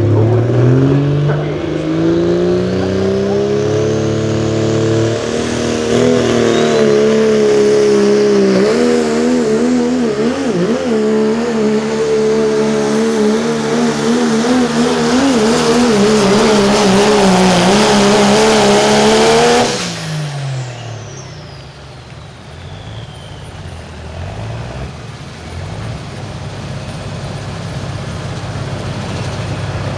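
Turbocharged diesel pulling truck's engine at full throttle under load, revs climbing over the first few seconds, then held high with an uneven wobble as the truck bounces down the track. About twenty seconds in the throttle is cut and the revs fall away, leaving a lower rumble while a high turbo whistle winds down over several seconds: the end of the pull.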